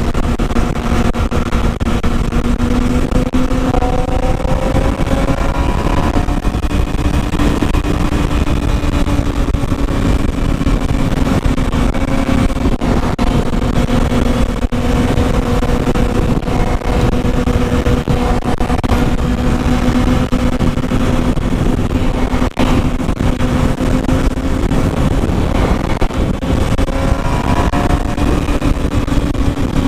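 Motorcycle engine running at a steady cruise, its pitch drifting slowly up and down, over heavy wind rush on the microphone.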